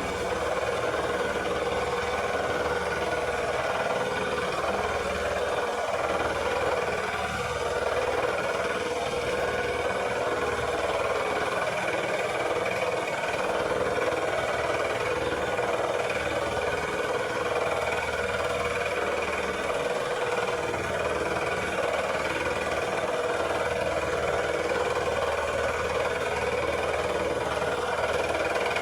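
Lawn mower engine running steadily at an even speed, with a constant hum and no change in load.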